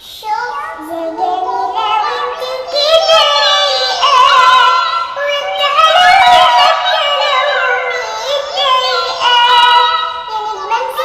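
Thin, high-pitched, synthetic-sounding singing of a sholawat melody, in voices pitched up to sound like a cat and cartoon children.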